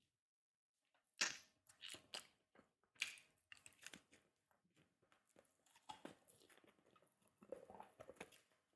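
Close-miked chewing and crunching of food in the mouth, a series of irregular crunchy bites and chews starting about a second in.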